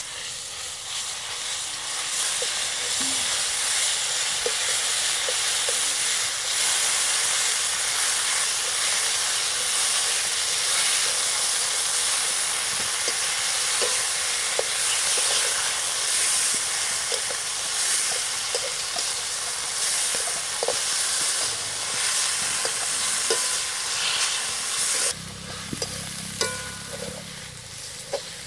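Spice paste of onion, green chili, ginger and garlic sizzling in hot oil in a metal wok, stirred with a metal spatula. The sizzle is loud and even, and quietens near the end.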